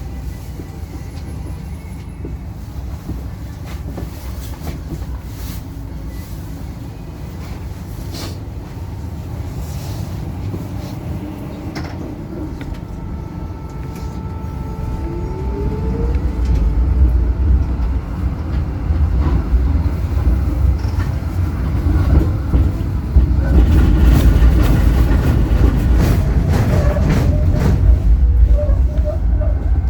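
Zürich city tram running on its rails with a steady low rumble, heard from the driver's cab. The rumble grows clearly louder about halfway in, with scattered clicks and knocks of the wheels on the track.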